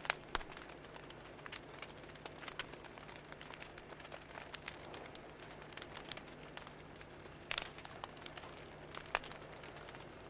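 Wood fire crackling: irregular sharp pops and snaps over a soft hiss, with a couple of louder pops near the end.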